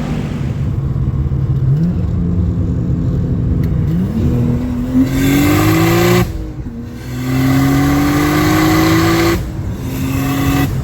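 Turbocharged Nissan RB25 straight-six engine accelerating hard, its revs climbing twice. The first climb breaks off about six seconds in, and after a short dip the revs climb again before the throttle is released about nine and a half seconds in. The engine then settles to a lower, steady running note.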